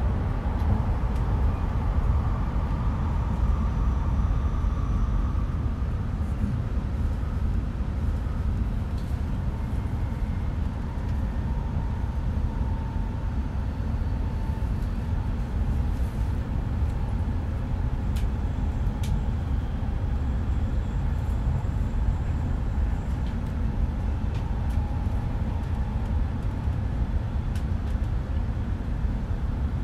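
Cabin noise of an E5 series Shinkansen running: a steady low rumble of the wheels and running gear on the track, with a few faint ticks.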